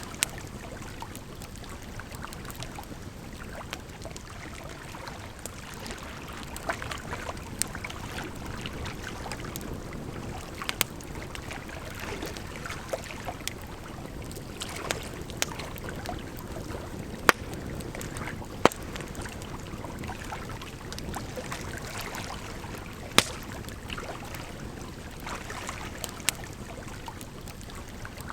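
Campfire crackling, with scattered sharp pops, over a steady rush of flowing water.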